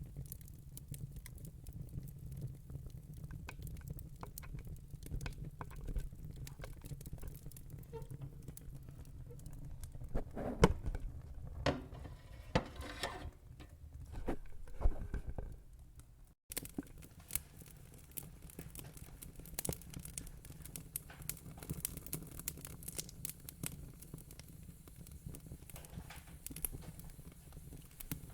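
Wood fire in a fire pit crackling and popping, with a low rumble beneath; the pops come thicker and louder for several seconds in the middle. The sound drops out for an instant about halfway through.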